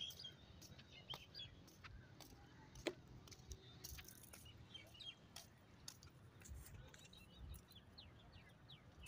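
Faint, scattered bird chirps, with a few short falling chirps near the end. Soft clicks run through it, a sharper one about three seconds in, over a low rumble.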